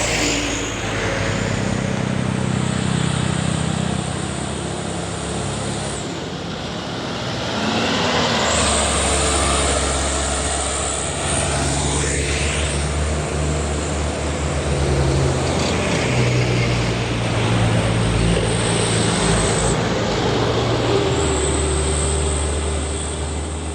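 Heavy trucks' diesel engines labouring up a steep incline as several vehicles pass one after another, with loud tyre and road noise.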